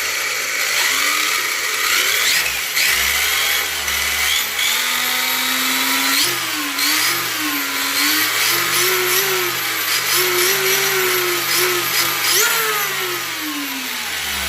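Brushless RC car motor, a Hobbywing EZRun 560 kV 7125 on a Max 4 ESC, being throttled up and down so that its whine rises and falls in pitch several times and slides down near the end. It runs over the steady rushing whine of the onboard cooling fan and vacuum blower.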